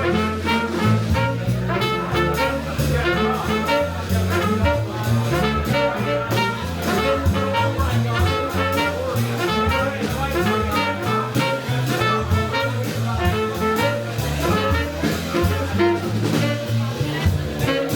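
Live jazz band playing, with horns over a walking bass line and drums.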